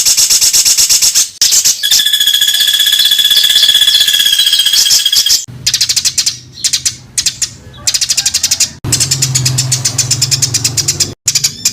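Spliced recordings of songbird calls made as cage-bird tutor song, full of rapid, harsh rattling bursts of notes ('tembakan rapat dan kasar'). About two seconds in, a steady whistled note is held for roughly three seconds, and a low hum runs under the later part.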